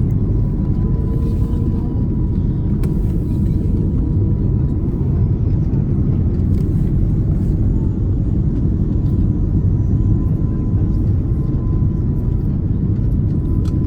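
Steady cabin noise inside an Airbus A330 airliner in flight: a loud, even low rumble of engines and airflow, with a faint steady high tone over it.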